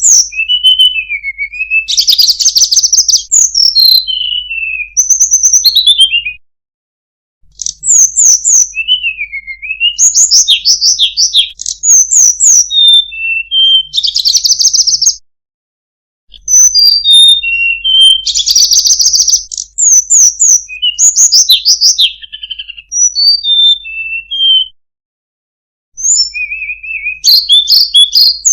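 Tledekan gunung songbird singing: fast runs of high, varied chirps, trills and short whistled glides, delivered in long phrases that break off into about a second of silence three times.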